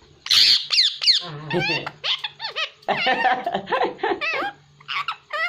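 Pet parrot chattering in a run of short, squeaky, speech-like calls that slide up and down in pitch, with a harsh screech about a quarter second in.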